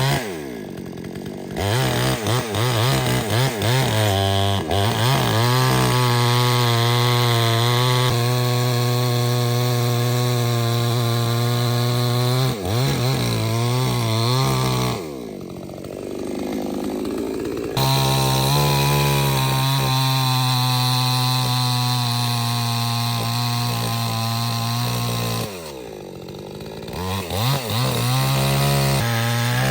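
Two-stroke chainsaw running at full throttle while cutting wood, dropping off to idle three times and revving back up each time.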